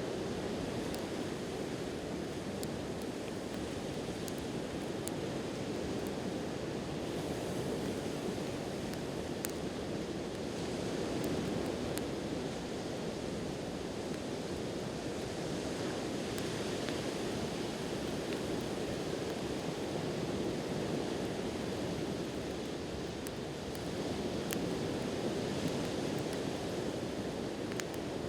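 Sea waves washing onto the shore in slow swells, over a steady surf hiss. A wood campfire crackles close by with a few sharp, scattered pops.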